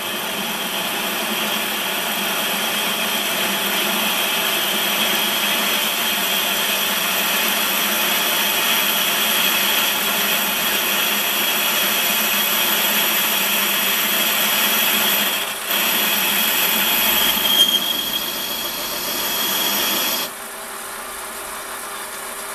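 Warco metal lathe running with a boring tool taking a cut at the bottom of a 30 mm bore, a steady machining noise with constant whining tones. It dips briefly about 15 seconds in, and about 20 seconds in the cut stops, leaving the lathe running more quietly.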